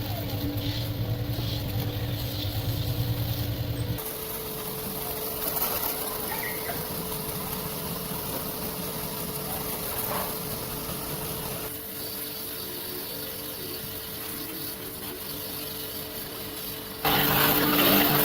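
A steady machine hum holding a constant pitch, which changes abruptly about 4, 12 and 17 seconds in and is loudest after the last change.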